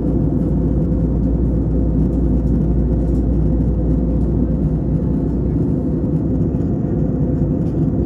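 Steady low drone of an Airbus A320-family airliner heard from inside the passenger cabin in cruise: engine and airflow noise.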